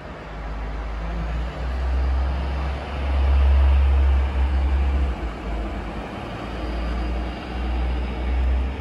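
Station ambience of an electric regional train, with a faint whine rising slowly in pitch through the second half, buried under heavy gusting wind rumble on the microphone.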